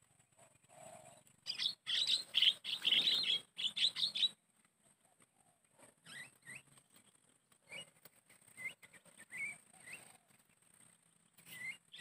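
Birds calling: a loud burst of harsh, chattering calls from about 1.5 to 4 seconds in, then scattered short rising chirps, with a louder one near the end.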